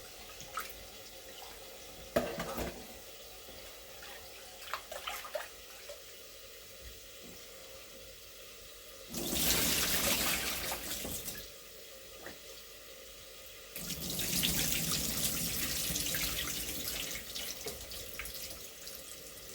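Kitchen tap running into the sink twice, first for about two seconds and then for about five, after a few short knocks and clatters near the start.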